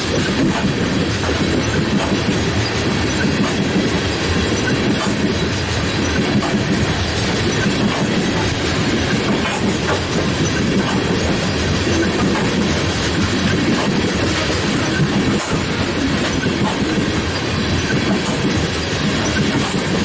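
A passing coal train's freight cars, steel wheels rolling on the rails with a steady loud rumble and scattered clicks.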